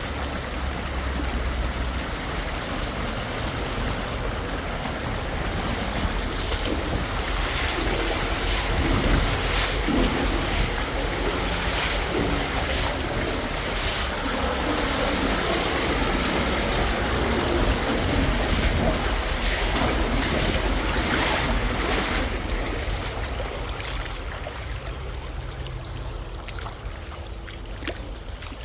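Fast-flowing water rushing steadily, with brief louder surges and wind buffeting the microphone.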